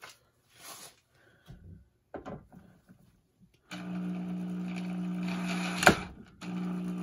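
Electric drill running steadily for about two seconds, a sharp knock, then running again near the end: driving screws into wood. Faint handling knocks before it starts.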